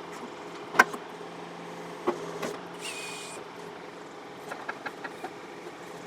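John Deere 4052R tractor's diesel engine running steadily while the backhoe works a loosened stump, with sharp knocks, the loudest about a second in, a brief high whine around three seconds, and a run of small clicks near the end.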